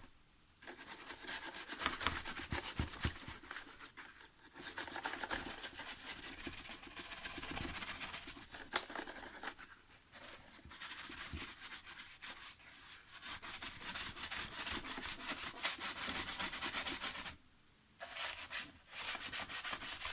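Rapid back-and-forth scrubbing against the plastic housing of an iRobot Roomba 696, stopping briefly three or four times.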